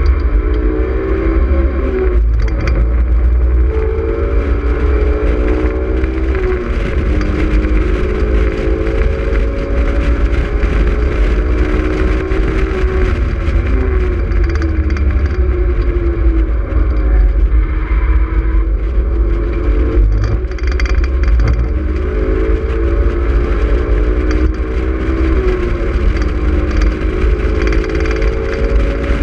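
Honda S2000's four-cylinder engine under hard track driving, its note climbing and falling again and again as it works up and down through the gears. Heavy wind rumble comes over it in the open cockpit.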